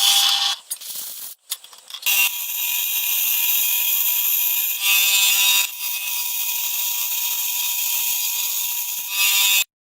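A homemade CNC machine's high-speed spindle cutting, with a steady high whine. It stops about half a second in, gives a few short spurts, starts again at about two seconds, and cuts off abruptly near the end.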